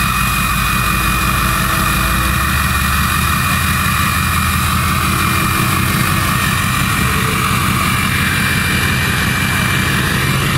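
Ford F-250 diesel pickup running with a loud, steady rush of intake air and a high whine over a low engine rumble, like a vacuum or an airplane taking off.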